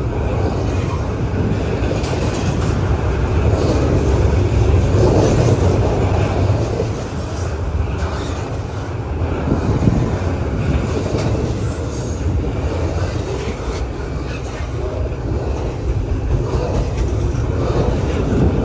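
Double-stack intermodal freight cars rolling past: a steady low rumble of steel wheels on rail, with scattered clicks as the wheels pass over the rail joints.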